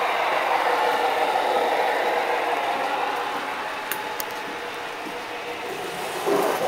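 HO-scale model train running along the track nearby, a steady mechanical rattle and whir of wheels and motor that eases off after about three seconds, with a couple of sharp clicks about four seconds in.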